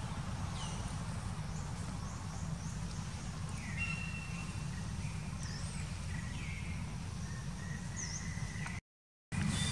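Outdoor ambience: a steady low rumble with scattered short bird chirps and whistles, some gliding down, some up. The sound drops out for about half a second near the end.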